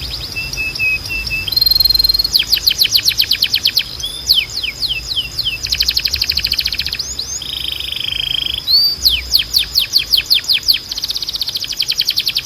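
Timbrado canary singing a long, varied song: fast trills of repeated notes alternate with short held whistles, and a buzzy rolling phrase comes about seven seconds in.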